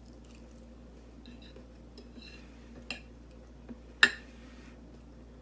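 Eating close to the microphone: faint chewing with a few sharp clicks of cutlery or dishes, the loudest a single sharp click about four seconds in.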